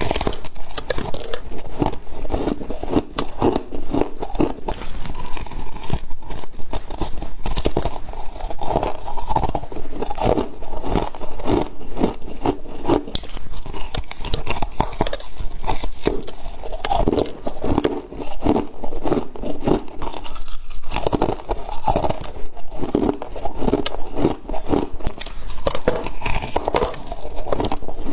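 Close-up crunching and chewing of soft freezer frost: a rapid, irregular run of crisp crunches as mouthfuls are bitten and chewed.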